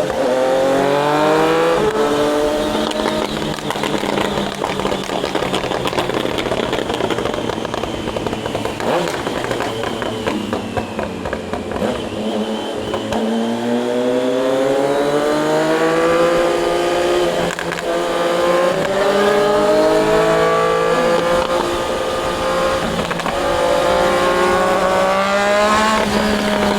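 Triumph Daytona 660's inline three-cylinder engine heard from on board the moving bike, its pitch falling near the start, climbing and easing off through the middle, then rising steadily for the second half as the bike accelerates.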